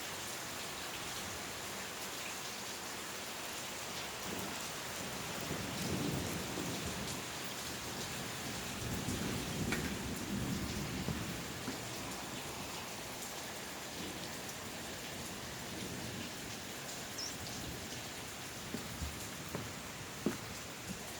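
Steady heavy rain, with thunder rumbling low twice: briefly about six seconds in, and longer around the middle. A few sharp drop taps come near the end.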